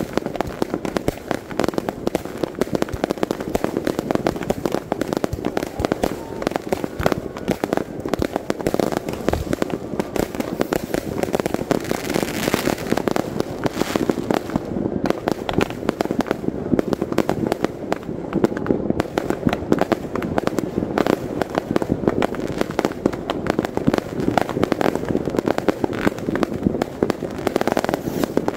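Consumer fireworks going off many at once: a continuous, dense crackle of bursting shells and firecrackers with rapid overlapping bangs and no let-up.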